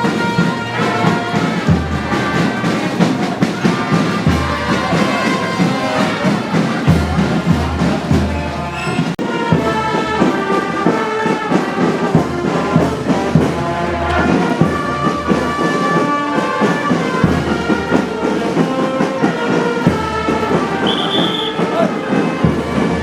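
Brass band music with low bass notes underneath.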